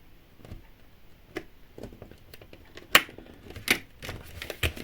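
Small clicks and taps of tiny toy pieces being handled and fitted together by hand, irregular and sharp, the loudest about three seconds in.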